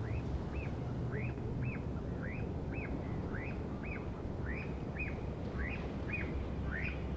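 A bird calling over and over: short arched notes that rise and fall, about two a second, often in pairs.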